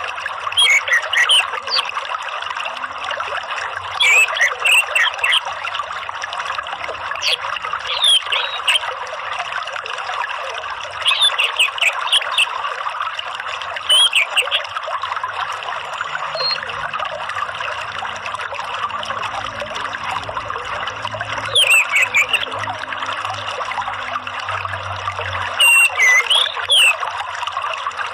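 Steady trickling running water with short, sharp whistled calls of an orange-headed thrush (anis merah) breaking in every few seconds. It is a lure track meant to prompt a caged anis merah to sing.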